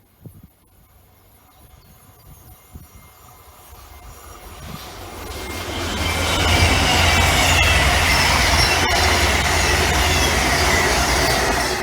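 A train on the main line approaching and passing, growing from faint to loud over the first six seconds, then a steady heavy rumble of wheels on rail with thin high tones above it.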